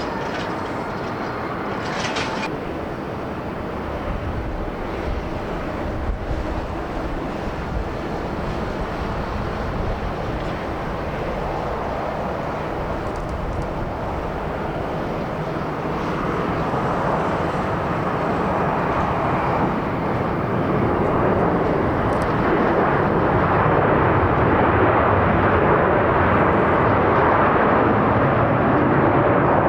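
Boeing 787-8 jet airliner on approach to land, a steady rush of jet engine noise that grows louder as it comes closer and is loudest near the end.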